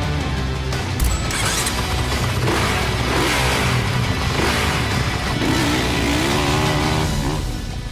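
Dirt bike engine revving up and down over background music, with a sharp hit about a second in.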